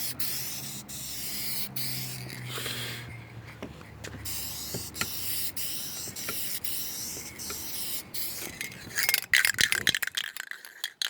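Aerosol spray can of clear coat hissing in spurts as it is sprayed onto a vehicle's painted panel. A burst of rapid, sharp rattling near the end is the loudest part.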